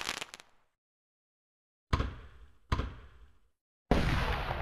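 Fireworks going off: a burst dies away, then after a second of silence two sharp bangs about a second apart, each fading out. About four seconds in, a loud, dense run of bursts starts and keeps going.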